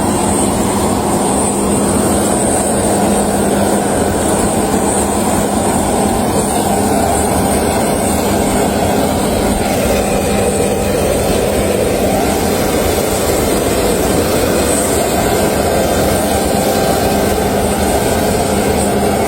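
Steady drone of a private jet's cabin in flight: engine and rushing air noise, with a low hum and a thin high whine held steady throughout.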